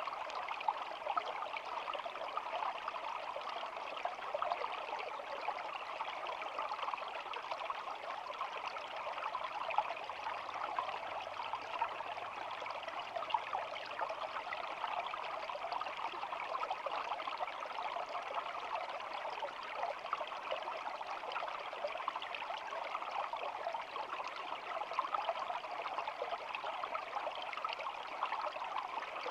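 Small shallow stream flowing steadily, a dense, even babble of trickling water.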